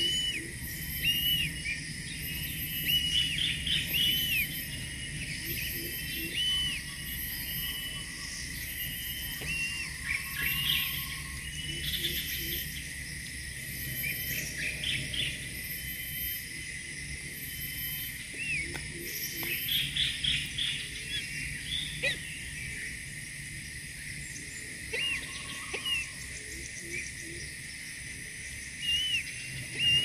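Bird calls: repeated short, high chirps coming in clusters every few seconds, over a steady high-pitched hum.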